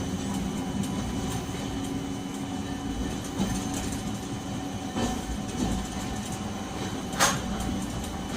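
Nagasaki Electric Tramway 370-series streetcar running, heard from inside the car: a steady rumble of wheels and motor on the rails, with a short, sharp burst of noise about seven seconds in.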